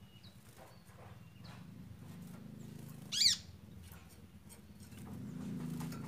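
A bird gives one short, high, chirping call about three seconds in, over a faint low steady hum.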